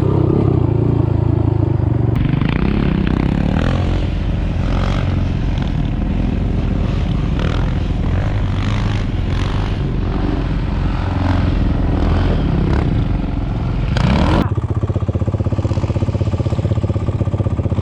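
Off-road engine running while riding over rough dirt, with rattling and clattering from the terrain. About fourteen seconds in, the engine gives a quick rev and then settles into a steady, evenly pulsing idle.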